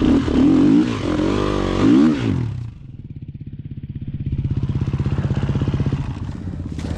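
Dirt bike engine revving, its pitch rising and falling twice in quick blips, then dropping to a low putter about three seconds in and building back up to a steady, higher run.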